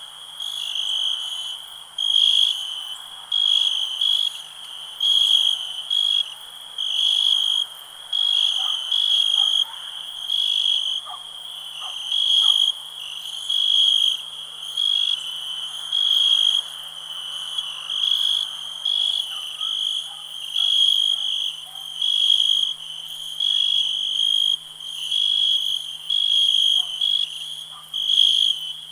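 Crickets chirping in a steady rhythm, one high-pitched chirp about every second, over a fainter background chorus.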